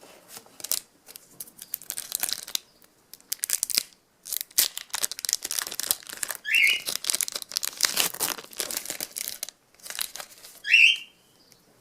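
A trading card pack's wrapper being crinkled and torn open, a dense run of crackles and rips. Two short, high, rising squeals cut through it, about halfway through and near the end.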